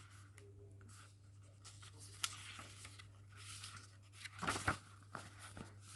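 Paper pages of a hardback book rustling and being handled as they are turned and held flat, with soft scrapes and small clicks, and a louder rustle about four and a half seconds in.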